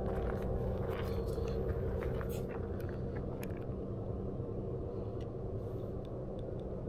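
A few footsteps on the trail in the first couple of seconds, then a steady low rumble in the background.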